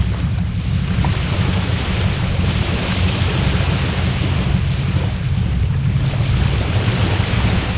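Wood bonfire burning with a steady low rumbling roar, wind buffeting the microphone, and a thin steady high-pitched tone over it.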